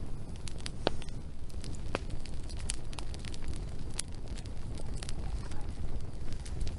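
Wood fire burning, with irregular sharp crackles and pops over a steady low rumble; a few louder pops stand out, about a second and two seconds in.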